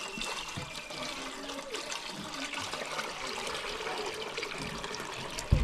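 Water running and splashing steadily, with a single low thump near the end.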